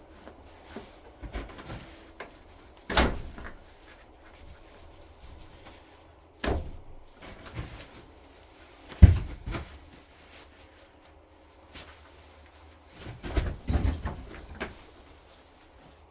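A handful of separate knocks and clunks, like hard objects being handled and set down, the loudest about nine seconds in and a quick cluster of them near the end.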